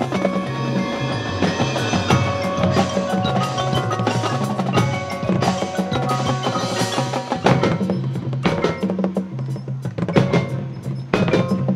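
Marching band playing a percussion-heavy passage: sharp pitched and drum strikes over sustained low notes.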